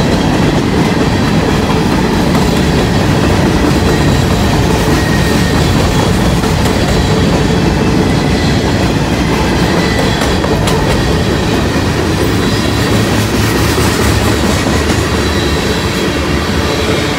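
Freight train of covered hopper cars rolling past at close range, the steel wheels running over the rails in a steady, loud noise.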